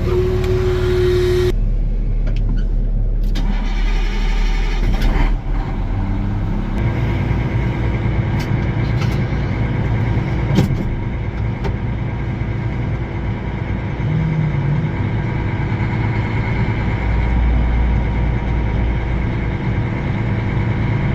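Large tractor diesel engine running steadily. The sound changes abruptly a couple of times in the first seven seconds, then settles into a steady engine note.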